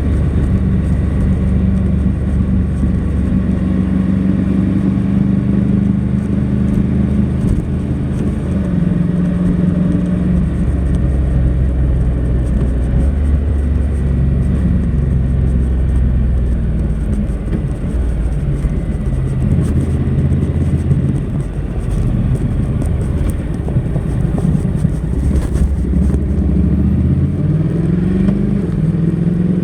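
Honda NC700X motorcycle's parallel-twin engine running through its stock exhaust while ridden. Its note holds steady, then shifts to a new pitch several times, and climbs near the end.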